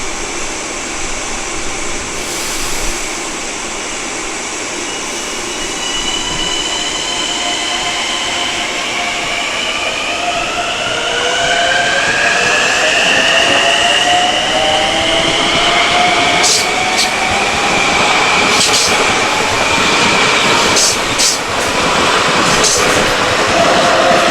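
A train passing close by and picking up speed. A whine of several tones rises steadily in pitch and grows louder, and a run of sharp clicks from the wheels near the end.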